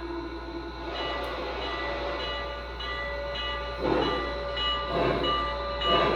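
Lionel Western Maryland 1309 Mallet model steam locomotive's onboard sound system starting off: slow steam chuffs begin about four seconds in, roughly one a second, over a steady low hum.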